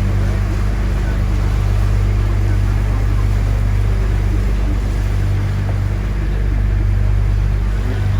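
Motorboat engine running steadily under way: a constant low drone over a steady hiss.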